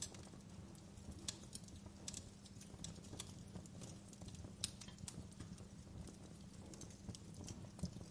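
Wood fire crackling in a fireplace: irregular sharp snaps and pops, a few a second, over a low steady rumble of burning.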